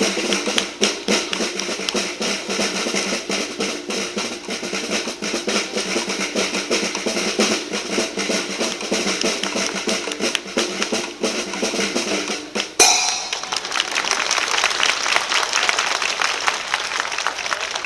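Children's marching band playing snare and bass drums over a held melody. The music ends with a final crash about 13 seconds in, followed by applause.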